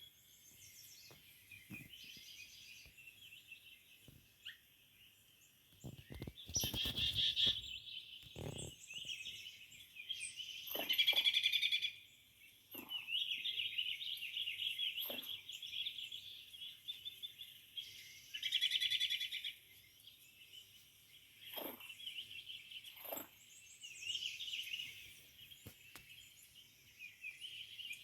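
Small birds chirping and twittering in a busy chorus, with a few short knocks and thumps along the way.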